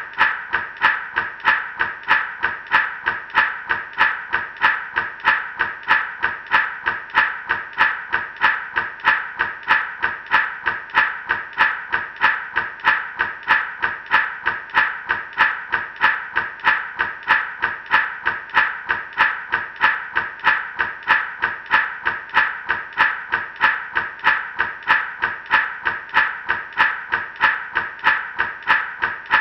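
Gourd rattle shaken in a steady, even rhythm, a few shakes a second, each shake a short burst of seeds rattling inside the dry gourd.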